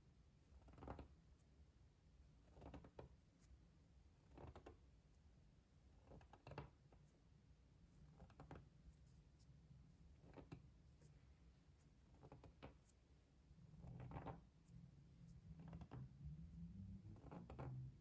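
Faint, soft ASMR trigger strokes, a brush or rustle repeating about every two seconds.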